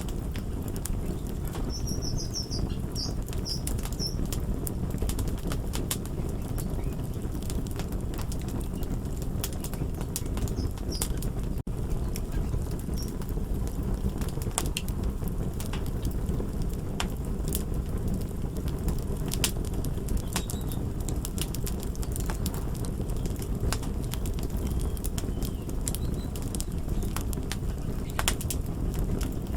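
Fire crackling: a steady low rumble of burning with irregular sharp pops and snaps scattered throughout, and a brief high squeak about two seconds in.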